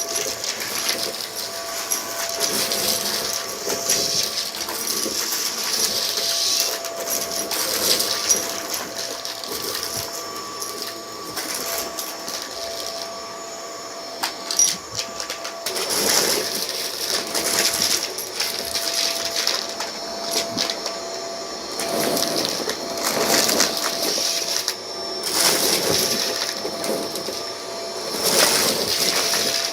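Vacuum cleaner running with a steady motor whine, its sound swelling and fading as it is pushed back and forth over a rug, with crackling and rattling as it sucks up a scattered debris mix.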